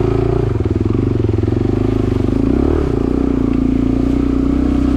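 Suzuki DR-Z250 dirt bike's single-cylinder four-stroke engine running at low revs through mud, with a brief rise and fall in revs a little past the middle.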